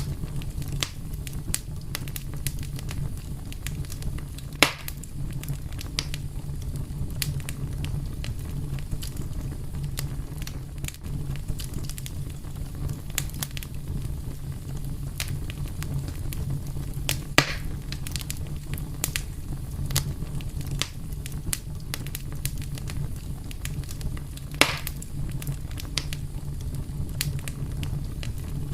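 Wood fire crackling steadily over a low, even rumble of flame, with scattered small snaps and three louder pops from the burning wood.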